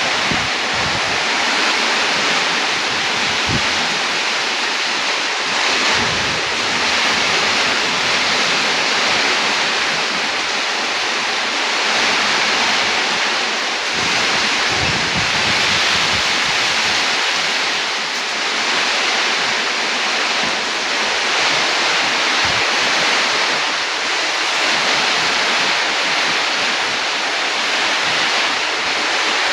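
Heavy rain and strong wind of a storm: a loud, steady hiss, with now and then a low rumble of wind buffeting the microphone.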